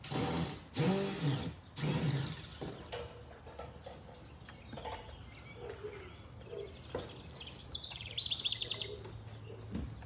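A small songbird singing a rapid, high trill that falls in pitch, about two and a half seconds long, starting past the middle. Before it, near the start, come three short, louder, noisy sounds.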